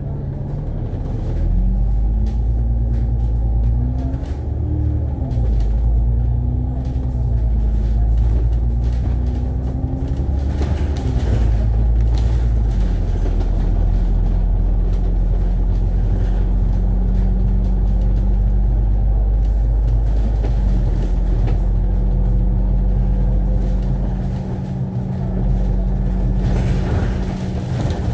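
Interior sound of an Alexander Dennis Enviro500 MMC double-decker bus under way, with a low engine-and-drivetrain rumble. The engine note rises and falls several times over the first ten seconds or so as the bus pulls away and the automatic gearbox changes up, then it holds steady.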